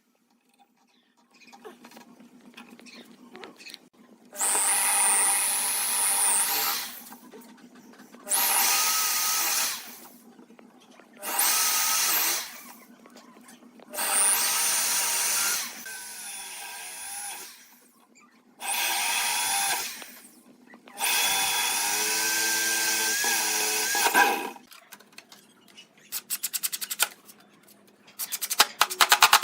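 Handheld power drill run in six separate bursts of a few seconds each, its motor whine holding steady through each run. A string of quick sharp clicks follows near the end.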